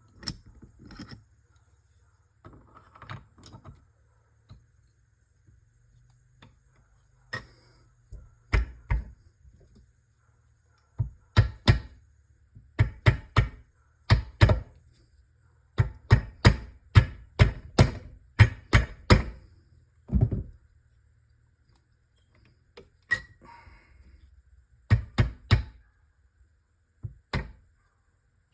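A series of sharp knocks and clunks as transmission parts are worked on by hand, scattered at first, then coming in quick groups of two to four strikes for about ten seconds in the middle.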